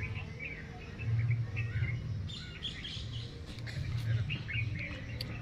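Small birds chirping and twittering on and off, over a low rumble that swells and fades, with a few sharp clicks in the second half.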